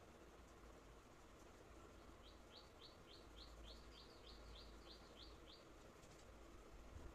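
Faint bird chirping: a quick run of about a dozen short chirps, roughly three a second, starting about two seconds in and stopping after about three and a half seconds, over a faint low rumble.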